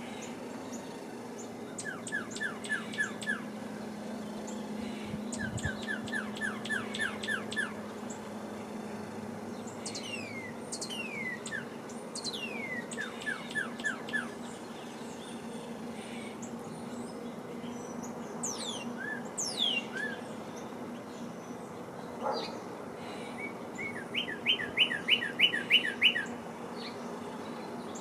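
Wild songbirds singing at a feeder: several quick runs of six to eight short repeated notes, and long whistles that slide steeply downward. The loudest run comes near the end. A faint steady low hum lies underneath.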